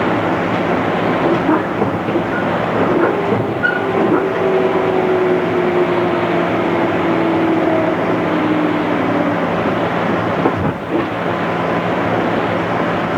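On-board running noise of a JR East 211 series electric multiple unit at speed: a steady rumble of wheels on rail, with a faint tone that slowly falls in pitch between about four and nine seconds in.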